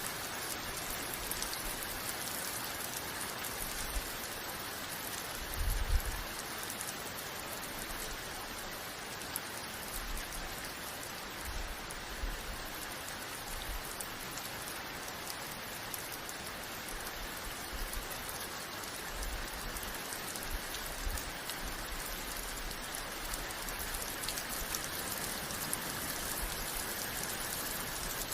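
Steady rain falling, an even hiss of many drops, with a brief low thump about six seconds in.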